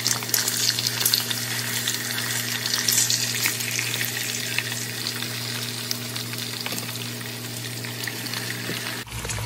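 Whole quails frying in shallow oil in a nonstick pan: a steady sizzle with many small crackles. A steady low hum runs underneath.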